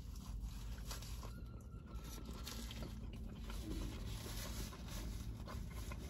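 A man biting into and chewing a burger, with faint crunches, and a paper napkin rustling as he wipes his mouth near the end, over a low steady hum.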